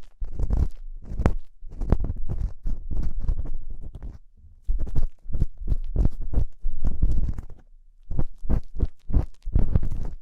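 Ear-cleaning tool scraping and rubbing inside a microphone's silicone ear, close up, in quick irregular strokes with two short pauses, about four seconds in and near the end.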